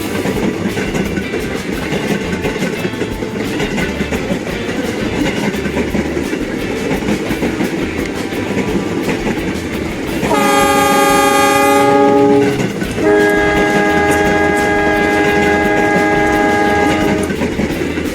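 Model diesel locomotive running along its track with a steady rumble, then sounding its horn twice: a blast of about two seconds about ten seconds in, then a longer, two-tone blast of about four seconds.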